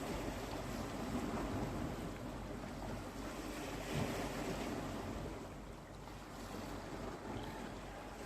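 Mediterranean sea waves washing onto the shore in a steady surf, easing a little about six seconds in.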